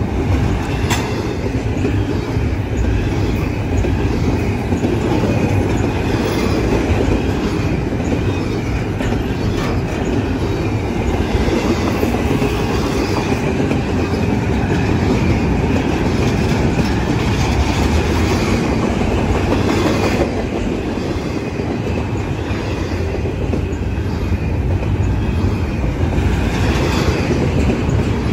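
Double-stack intermodal freight train passing close by, its loaded container well cars rumbling steadily over the rails, with clicks from wheels crossing rail joints at uneven intervals.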